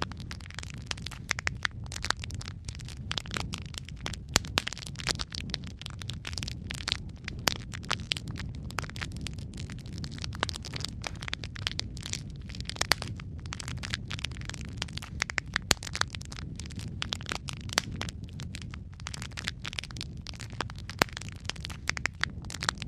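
Wood fire in a fireplace crackling, with many sharp irregular pops and snaps over a steady low rumble of burning.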